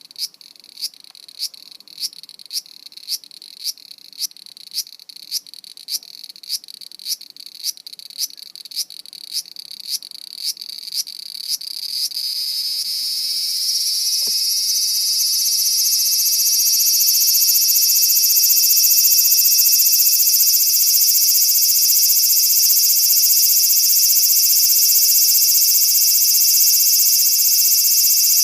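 Cicada singing: a run of short, sharp pulses about two a second that quicken and, about thirteen seconds in, merge into a continuous high buzz, which grows louder and then holds steady.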